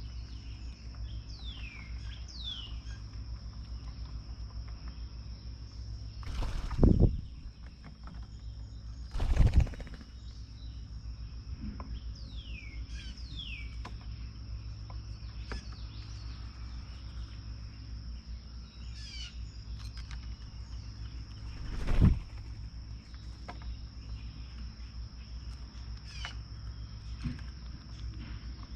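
Small songbirds chirping at a feeder: short downward-slurred notes every few seconds, with three brief louder bursts, two close together and one later, over a steady high insect drone.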